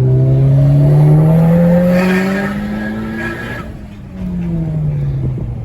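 Big-turbo VW Golf GTI Mk4 engine heard from inside the cabin, screaming through a hard second-gear pull: the revs climb steadily for about three and a half seconds with a rising turbo hiss, then the throttle comes off and the revs fall away.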